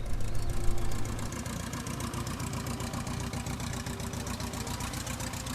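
Light aircraft's piston engine running at low, steady speed with an even beat of firing pulses, a little louder for the first second.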